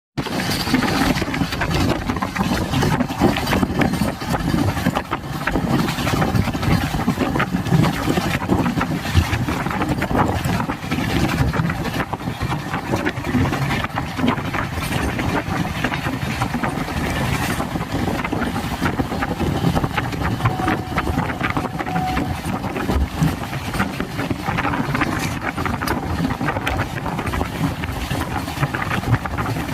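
Passenger train running along the track: a steady low rumble with rapid fine clatter.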